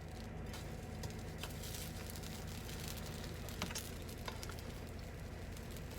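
A buttermilk cornbread patty frying in butter in a pan, sizzling with scattered pops and crackles, over a steady low hum.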